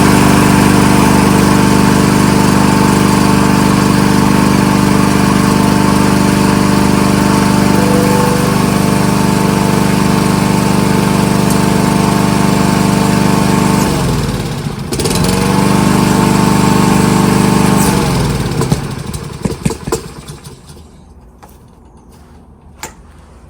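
Kohler XT-675 single-cylinder OHV engine on a push lawnmower, running at steady speed just after a pull start. About two-thirds of the way through its speed dips sharply for a moment and recovers. It is then shut off and winds down to a stop, leaving only a few faint clicks.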